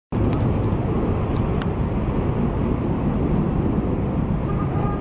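Steady low rumble of outdoor background noise that starts abruptly, with a few faint clicks on top.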